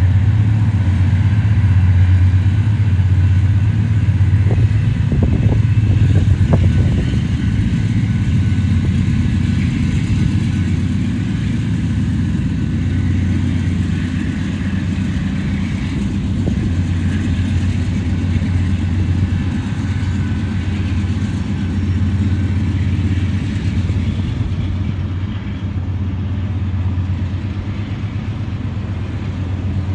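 Diesel freight locomotives running with a steady, heavy low engine drone. A few brief sharp sounds come about five to seven seconds in.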